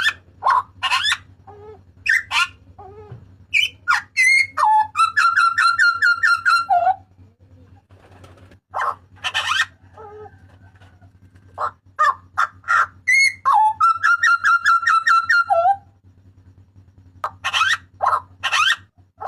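Butcherbird (jagal papua) giving loud whistled calls: long held notes that drop in pitch at the end, alternating with quick sharp notes. A faint steady electrical hum runs underneath.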